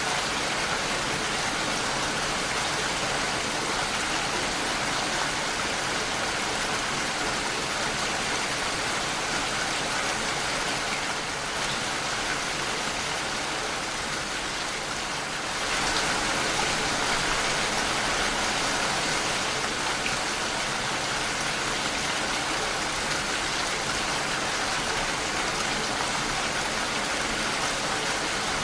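Steady rain falling against a window pane. It eases a little for a few seconds around the middle, then picks up again.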